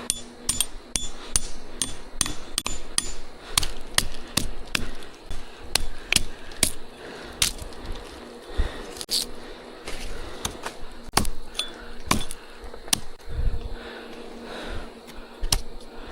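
Repeated sharp knocks like hammer blows, two or three a second at first, coming more sparsely after about eight seconds.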